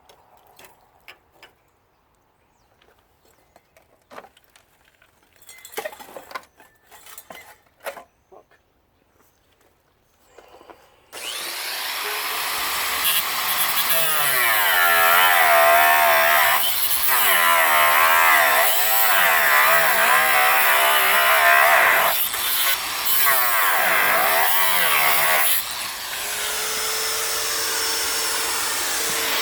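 A few light handling clicks and knocks, then about 11 seconds in a small 125 mm Makita angle grinder starts up and cuts through steel bolts, its pitch wavering as the disc bites and eases. Near the end it runs on more steadily.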